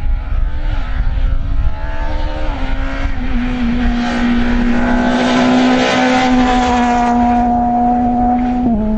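Rally car engine at high revs, loud. Its note climbs in small steps, then holds steady as the car goes by, and drops suddenly near the end.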